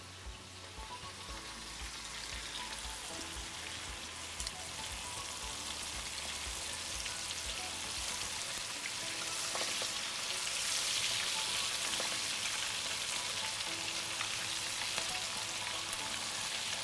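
Minced-meat balls frying in oil in a non-stick pan on a gas burner: a steady sizzle that grows louder over the first ten seconds or so.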